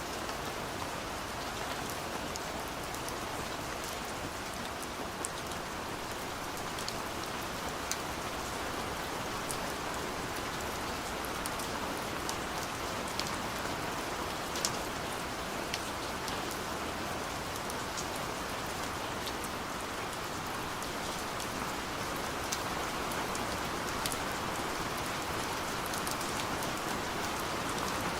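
Steady rain falling, with the sharp ticks of separate drops striking a surface scattered through it.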